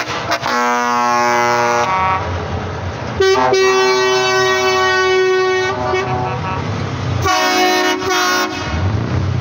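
Truck horns sounding three long blasts, the first lower in pitch than the next two, over the rumble of truck engines.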